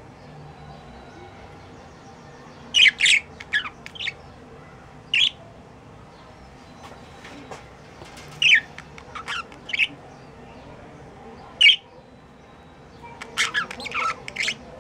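Pet budgerigars giving short, sharp squawks and chirps, spaced a second or more apart, then coming in a quicker run near the end.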